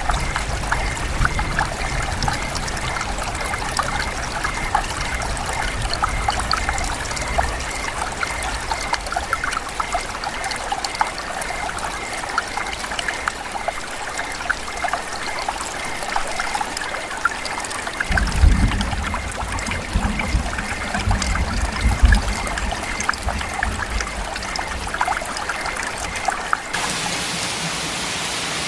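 Rain dripping and trickling: a dense patter of drops over running water, with a few low rumbles about two-thirds of the way through. Near the end it switches abruptly to an even hiss of steadier rain.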